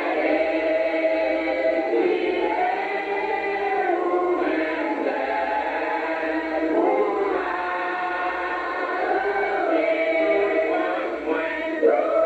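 A group of people singing a hymn together, their voices holding long notes.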